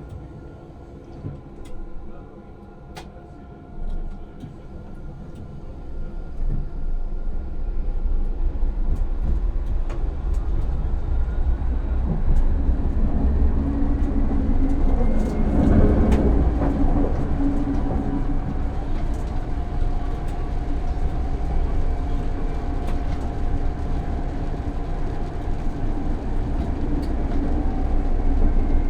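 Tram heard from the driver's cab pulling away and accelerating. After a few quiet seconds with occasional clicks, the running noise grows from about six seconds in, with a whine rising in pitch for several seconds. It then settles into a steady low rumble of wheels on rails with a constant hum.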